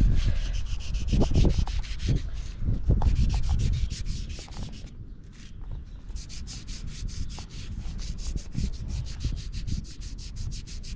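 Paintbrush stroking Perma Blue cold-bluing solution onto a bare steel crowbar, with quick repeated scratchy brush strokes that become faster and more regular in the second half, several a second.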